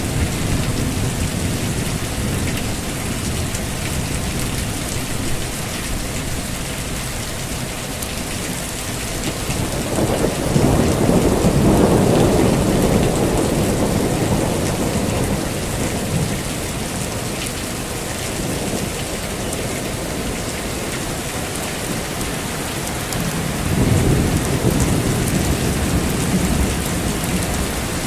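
Heavy rain falling steadily in a thunderstorm, with rolls of thunder: a long low rumble swelling up about a third of the way in and fading over several seconds, and a shorter one near the end.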